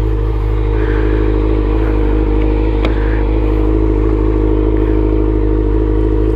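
Motorcycle engine idling steadily, with a single sharp click about three seconds in.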